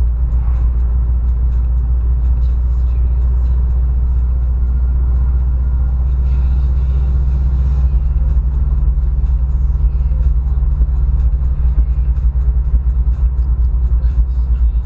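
Car engine running at idle, a steady low sound that turns choppier and more uneven about halfway through.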